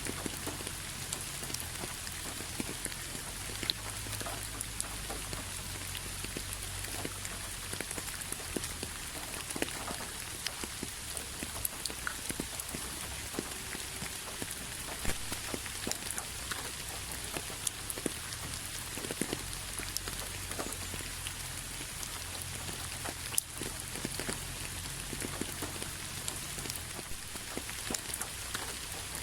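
Steady rain falling: an even hiss with many separate drops ticking close by, over a low steady rumble.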